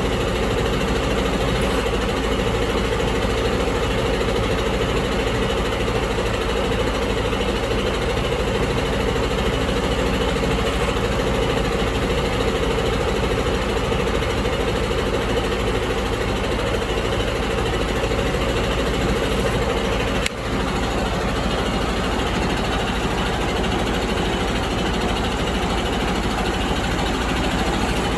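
Detroit DD15 inline-six diesel engine idling steadily, with a brief dropout about twenty seconds in.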